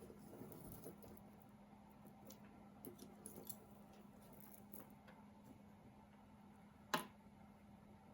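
Near silence with faint handling of costume jewelry: a few soft ticks, then one sharp click about seven seconds in.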